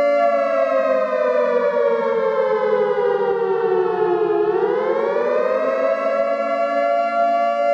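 Warning siren sounding a steady multi-tone wail; about a second in its pitch begins sliding down, bottoms out a little past the middle, then rises back up to the steady tone.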